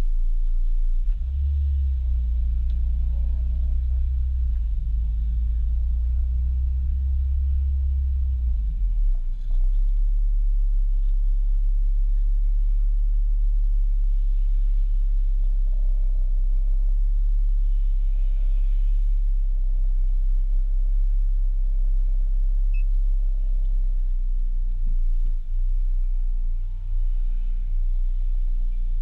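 Acura Integra engine running at low revs, heard from inside the cabin as a steady low rumble. The rumble is heavier for the first nine seconds or so, then settles lower.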